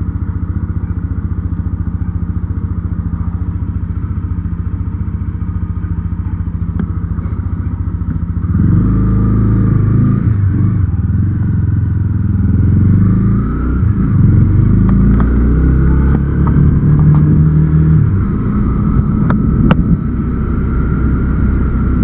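Motorcycle engine idling steadily, then about eight seconds in pulling away and getting louder, its note rising and dropping back several times as it goes through the gears.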